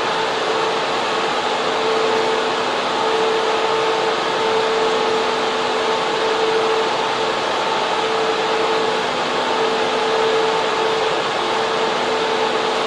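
Data center server room: the steady rush of server and air-cooling fans, with a constant hum tone over it.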